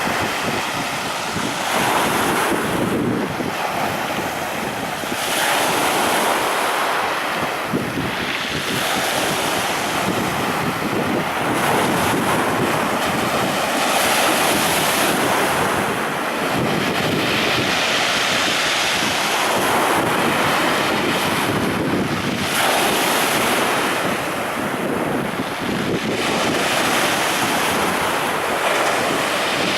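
Sea surf: waves breaking on the shore, the wash swelling and easing every few seconds.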